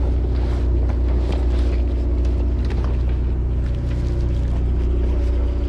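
Fishing party boat's engine idling, a steady low hum that does not change, with scattered light clicks and knocks over it.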